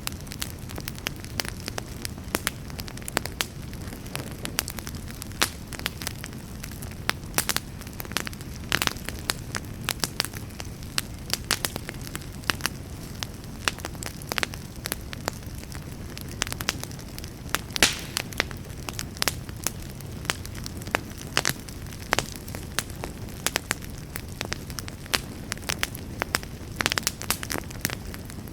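Campfire burning with a steady low roar and frequent irregular crackles and sharp pops.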